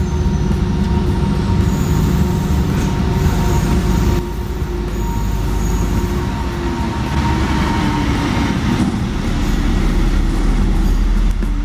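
Train running at close range: a steady heavy rumble of the locomotive and rolling cars, with a thin steady whine through the first part. The level drops suddenly about four seconds in and then carries on.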